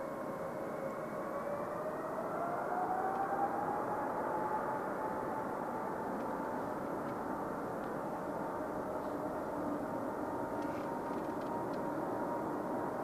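Boeing 777-200ER jet engines running with a steady rumble and a whine that rises in pitch about two seconds in, then holds steady: the engines spooling up to higher thrust.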